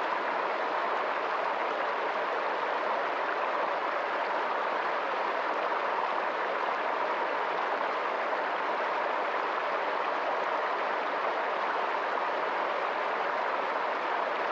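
Steady rushing of a flowing stream, an even wash of water noise that does not change.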